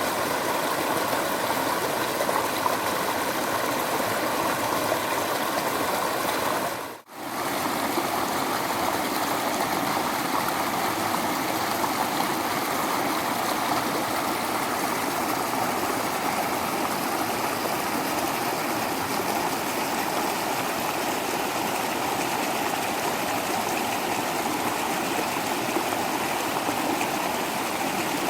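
Waterfall: water rushing and splashing in a steady, even wash of sound, which cuts out for a moment about seven seconds in and comes straight back.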